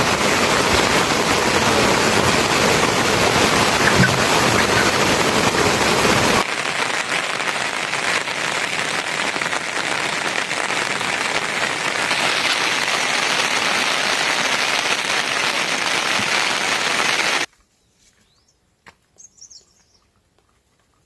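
Heavy rain falling as a dense, steady hiss that changes abruptly about six seconds in and cuts off suddenly a few seconds before the end. After that it is near quiet, with a few faint clicks and a short bird chirp.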